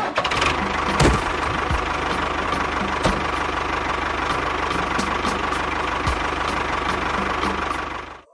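A small machine motor running steadily, with a few sharp knocks about one and three seconds in; it cuts off suddenly near the end.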